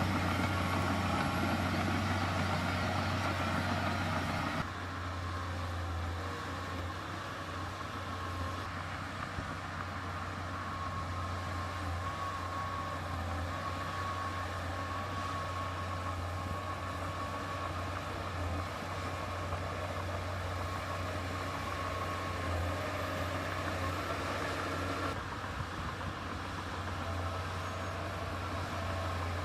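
Heavy diesel engine of earthmoving machinery running steadily with a deep, constant hum. The sound drops abruptly in loudness and brightness about four and a half seconds in, then changes again abruptly near the end.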